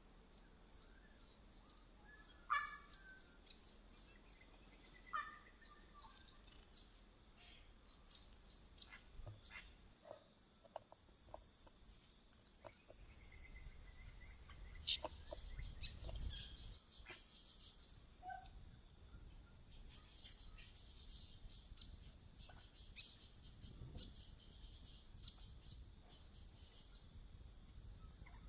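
Small birds calling: a steady run of short, high chirps a few times a second, with denser trilling twice, in the middle and past the middle.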